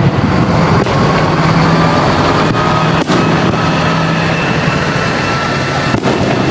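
Fireworks display: a dense, continuous rumble of overlapping bursts, with faint whistles above it.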